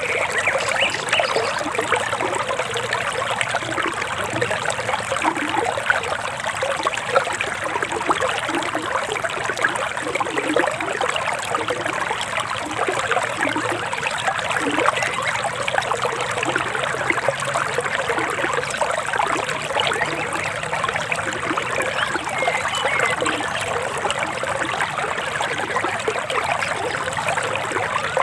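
Forest river water flowing and trickling steadily, an even rush with no break.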